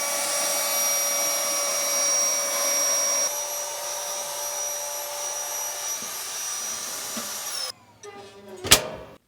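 A small electric motor running with a steady high whine and hiss. It steps slightly quieter about three seconds in and sags in pitch just before cutting off near the end. A single sharp click follows about a second later.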